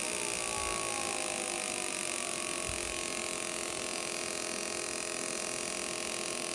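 Small motorcycle engine running, its revs rising briefly and then sliding back down to a steady idle within the first couple of seconds.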